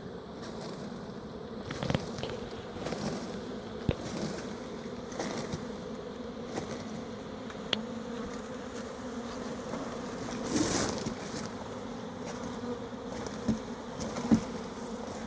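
A honeybee swarm buzzing in a steady low hum, with a few sharp knocks and a brief rustle partway through.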